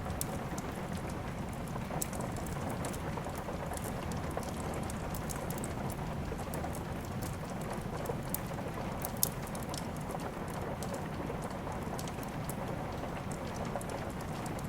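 Steady rain with a wood fire crackling, many small sharp pops scattered through it and one louder pop about nine seconds in.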